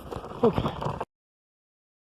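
Skateboard urethane wheels rolling over rough pavement with a steady rumble, and a brief falling voice sound about half a second in. The sound cuts off abruptly about a second in.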